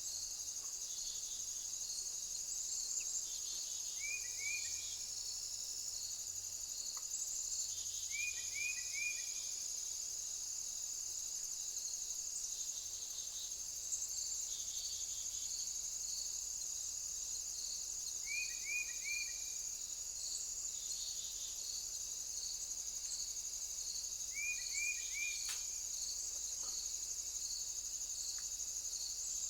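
Insects trilling steadily at a high pitch, with a second insect chirping in quick regular pulses, typical of crickets and bush-crickets in summer vegetation. A short three-note falling call repeats about every four to six seconds.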